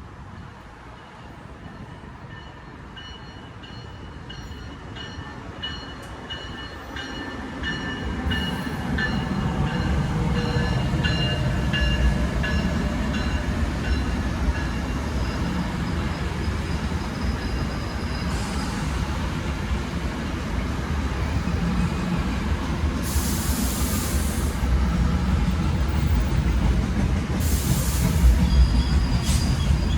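Passenger train on the Northeast Corridor approaching, growing louder over about ten seconds, then running past with a steady rumble. Thin high ringing tones from the rails sound during the approach, and two short hissy bursts come about four seconds apart near the end.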